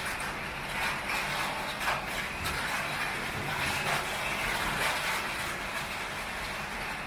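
Heavy rain pouring steadily onto a tin roof, a dense even patter with no thunder clap.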